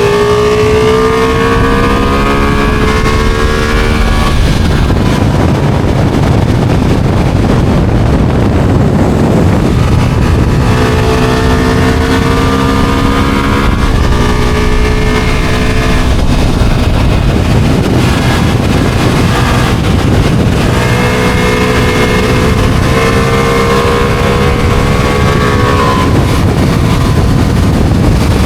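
Ducati motorcycle engine accelerating hard through the gears: its pitch climbs in each gear and breaks at each shift, under heavy wind rush on the microphone. For a few seconds after the first pull, and again midway, the engine fades into wind and road noise.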